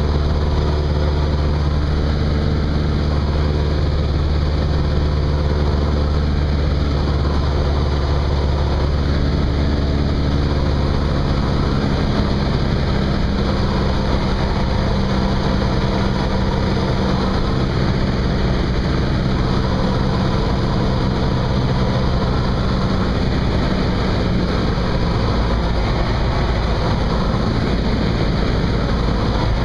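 Cessna 172's piston engine and propeller running steadily, with a change in the engine note about twelve seconds in.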